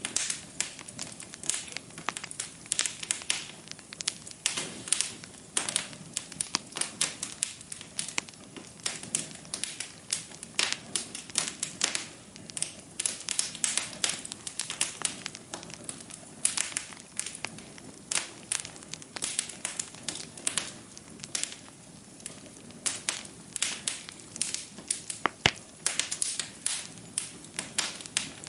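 Wood fire burning in a fireplace, crackling with many irregular sharp pops and snaps over a low steady hiss.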